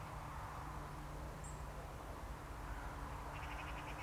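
Quiet outdoor ambience with a steady low rumble. A single high chirp comes about a second and a half in, and a bird gives a short rapid trill near the end.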